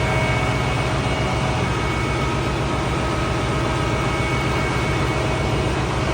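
Steady drone of ship's engine-room machinery: a constant low rumble with a few faint steady tones above it, unchanging throughout.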